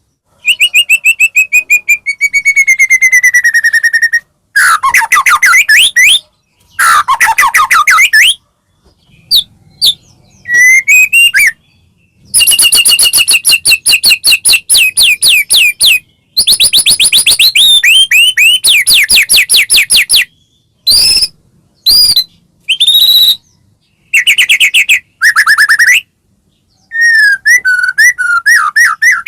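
White-rumped shama (murai batu) singing a loud, varied song of rapid trills and whistled phrases, some sliding down in pitch, in bouts of a second to a few seconds separated by short pauses.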